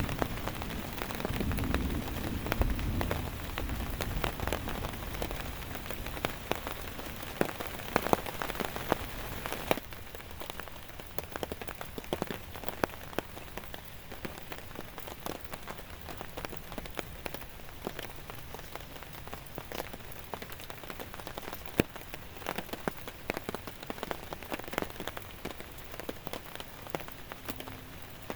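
Steady rain falling, with many sharp individual drops tapping on a surface. A low rumble sits under it in the first few seconds, and the rain eases a little about ten seconds in.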